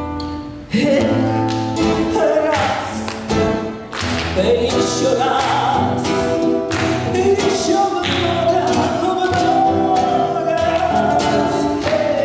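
A woman singing a lively Gypsy-style Russian romance to strummed acoustic guitars, with sharp rhythmic chord strokes and a long held, wavering note about two thirds of the way through.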